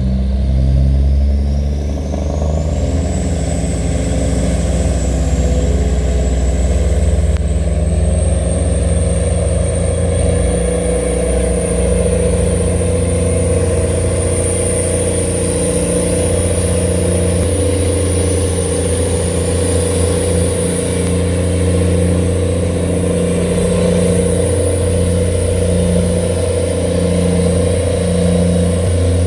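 A tugboat's engine running steadily under load while towing a cargo barge against the current, with a high whine that rises over the first few seconds and then holds steady.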